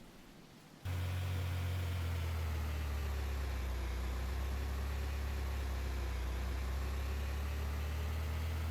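A vehicle engine running steadily, a low drone with a slight wavering in pitch, that cuts in suddenly about a second in and cuts off suddenly near the end.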